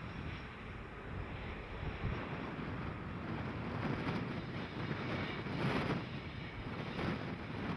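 Train passing, heard as a steady rumble with a few louder swells, with wind buffeting the microphone.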